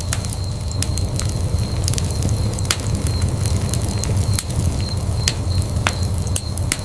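Wood fire burning in a fireplace: a steady low rumble of flames with sharp crackles and pops from the burning logs, about one or two a second.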